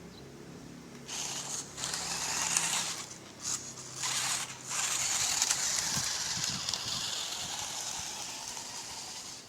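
RC rock crawler's tuned stock brushed motor and gears whirring with a hissy rasp, first in several short spurts, then in a longer run from about five seconds in that slowly fades.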